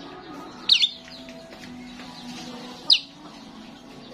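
Starling calling: two loud, sharp whistled calls about two seconds apart, with softer chirping between them.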